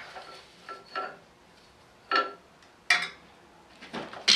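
Metal tools clanking and clinking against metal parts: a handful of sharp, ringing strikes, the louder ones about a second apart.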